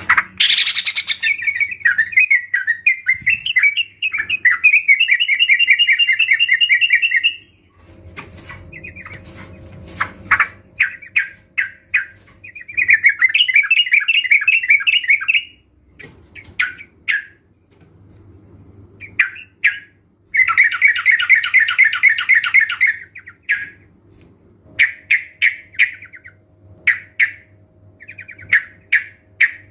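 A group of sooty-headed bulbuls calling: bouts of rapid, bubbling chatter a few seconds long, broken by short separate calls.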